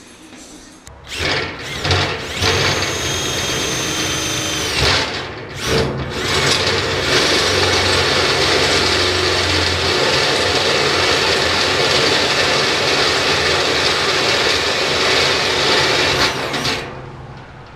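Electric drill driving a hole saw through the metal of a fuel tank, cutting a 3/4-inch hole. It starts and stops in a few short bursts at first, then cuts steadily from about seven seconds in until it stops near the end.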